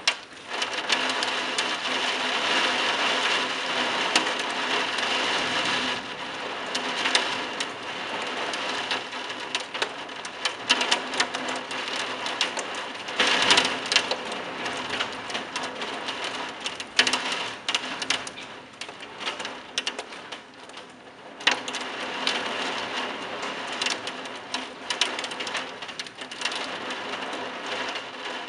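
Heavy wind-driven rain pouring onto roof tiles: a dense, loud hiss crowded with sharp spatters, swelling and easing in gusts.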